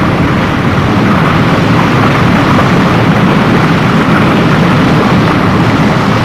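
Steady, loud roar of Big Wind's two MiG jet engines blasting water spray at a burning oil well.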